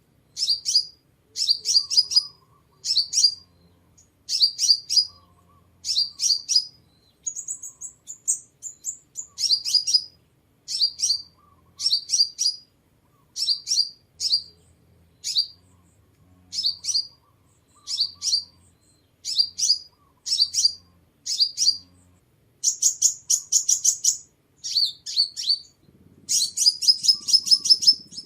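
Sunbird song: short bursts of thin, high chirps repeated about once a second, with quicker twittering runs now and then.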